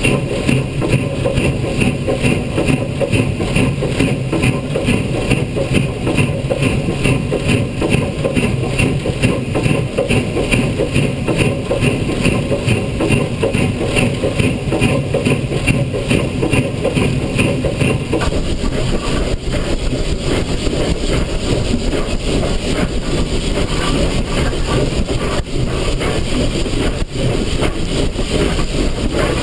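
Steam locomotive CP 3716 working, with a fast, steady rhythmic beat; about two-thirds of the way through the beat fades into a rougher, more even rushing sound.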